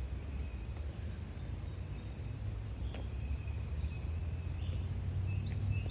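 Outdoor trail ambience: a steady low rumble, with a few faint, short, high bird chirps scattered through.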